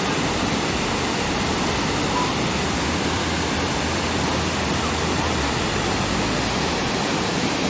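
Burney Falls, a 129-foot waterfall, pouring into its pool: a steady, loud rush of falling water.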